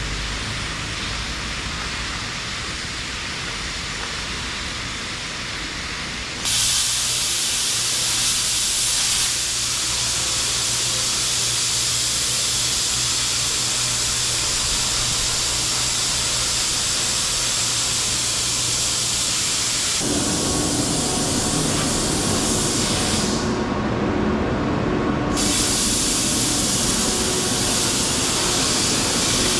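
Loud, steady hissing noise that steps louder and brighter about six seconds in. It changes character again around twenty seconds, when a deeper rumble with a faint steady hum comes in.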